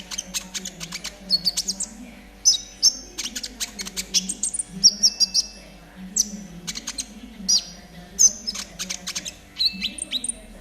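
Konin songbird singing a 'trotol' chatter: fast runs of sharp clicking notes broken by short, high whistled notes, repeating in bursts, over a low steady hum.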